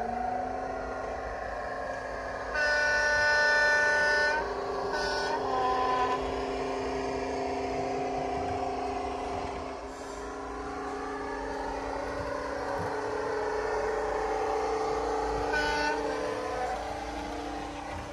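Model Class 55 Deltic sound decoder playing its recorded Napier Deltic engine sound through a small onboard speaker, the engine running steadily. A long horn blast comes about three seconds in, a short toot about five seconds in, and another short toot near the end.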